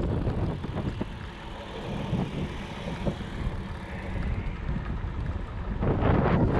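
Wind buffeting the microphone of a camera riding on a moving fat bike, over a steady low rumble. It grows louder in gusts near the end.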